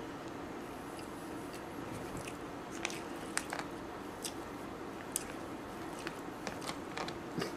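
A person chewing a mouthful of soft MRE meatloaf with gravy, with scattered small clicks from about three seconds in, over a faint steady hum.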